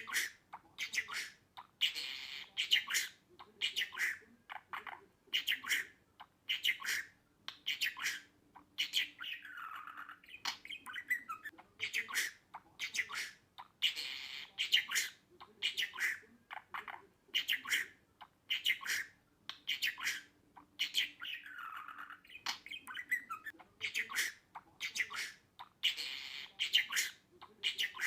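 Budgerigar chirping and chattering: rapid runs of short, high calls with an occasional downward-sliding call. The same sequence repeats about every twelve seconds, as in a looped recording.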